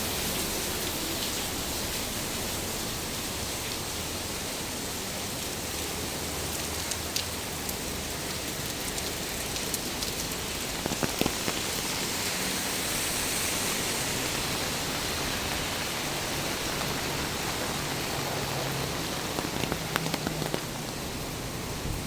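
Steady rain falling, with a few sharper drops or drips tapping now and then.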